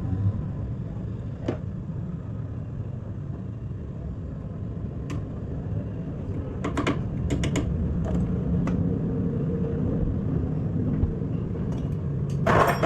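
Hand tools and metal suspension parts being handled during car suspension work: scattered light clicks and clinks over a steady low rumble of engine and traffic noise, with a louder metallic clatter near the end.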